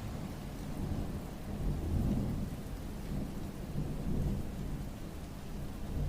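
Rain falling, with low thunder rumbling under it that swells about two seconds in and again about four seconds in.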